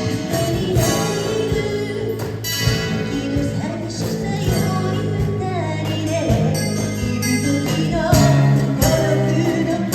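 A song performed live: a singer with guitar accompaniment and a steady bass line, the vocal melody most prominent in the second half.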